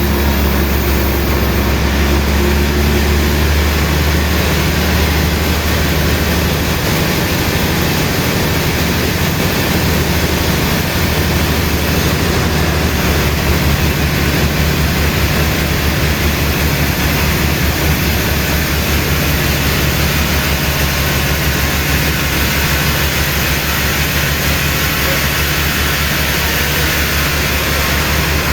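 Sawmill machinery running steadily: a constant deep hum under a broad, even rushing noise, with no cuts or pauses.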